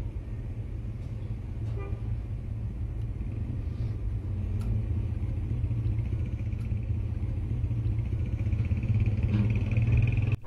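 Engine of a parked Paykan sedan idling with a steady low rumble, growing slightly louder toward the end, with a few faint clicks.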